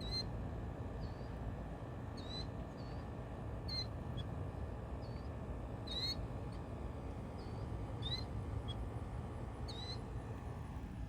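A bird calling in short, repeated chirps, about one a second, over steady low background noise.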